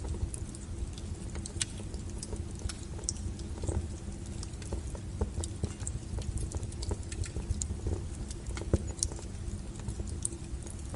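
Wood fire burning with a steady low rumble and frequent irregular crackles and pops from the burning firewood.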